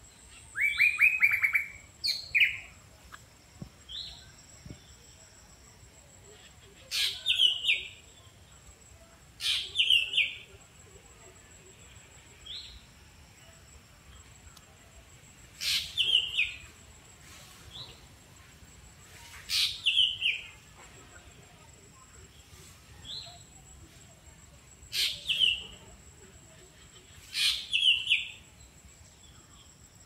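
A songbird in the trees giving short, sharp calls in little clusters every few seconds, each a quick flick followed by a falling note. A fast rattling series comes about a second in.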